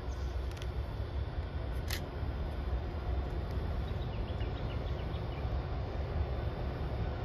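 Low, uneven rumble of a distant passenger train approaching behind a diesel locomotive, with two short clicks early and faint bird chirps about four seconds in.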